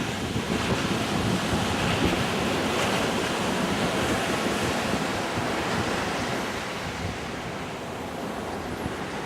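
Wind buffeting the microphone over a steady rush of sea water, easing a little in the second half.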